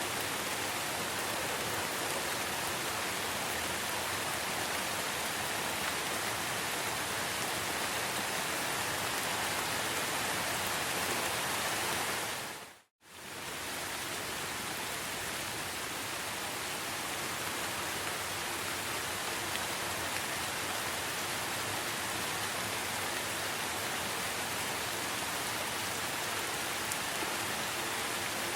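Steady rain, an even hiss. About thirteen seconds in it fades out to silence for a moment and fades straight back in.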